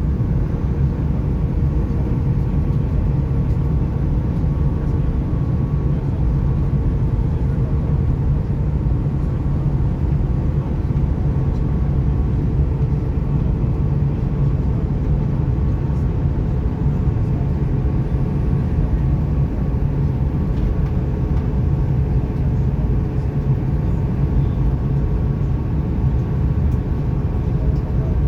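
Airbus A310 passenger cabin during the landing approach: steady low drone of the jet engines and airflow, with a faint steady whine in it.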